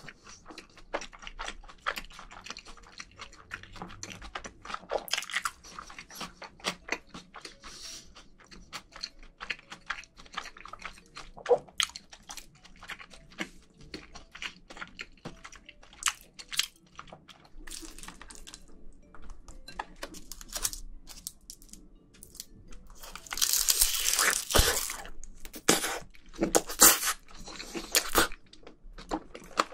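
Close-miked mouth sounds of a person chewing spoonfuls of rice mixed with marinated crab: many small wet clicks and crunches. About three-quarters of the way through comes a louder, noisier stretch of about two seconds.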